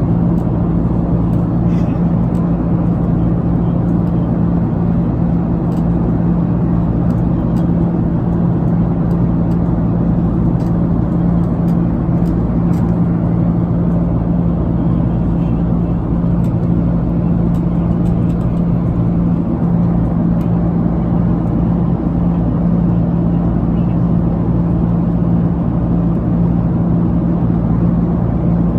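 Steady in-flight cabin noise of a jet airliner: engine and airflow rumble with a constant low hum, unchanging throughout.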